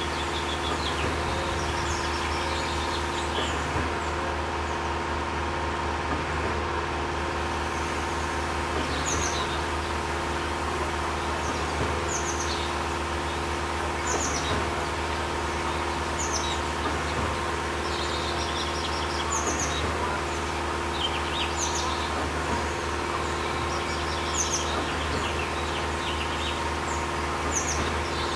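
Small birds chirping, short high calls every second or so, over a steady hum.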